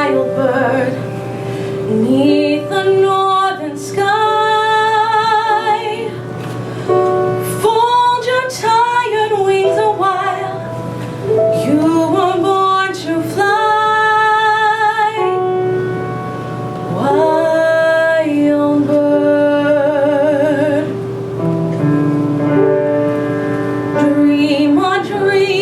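A solo voice singing a slow song over instrumental accompaniment, in phrases of a few seconds each with wide vibrato on the held notes.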